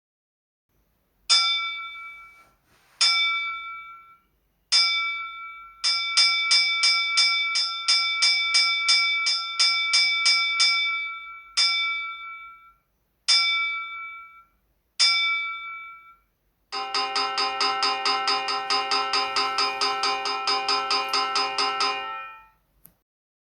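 Ship's bell struck three separate times, rung rapidly for about five seconds, struck three more separate times, then a gong rung rapidly for about five seconds. This is the restricted-visibility signal of a vessel aground, with the gong sounded aft as on a vessel of 100 metres or more.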